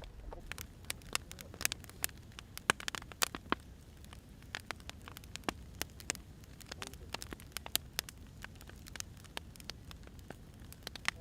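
Wood fire burning: irregular sharp pops and crackles from the firewood over a low steady rumble, thicker in the first few seconds and sparser after.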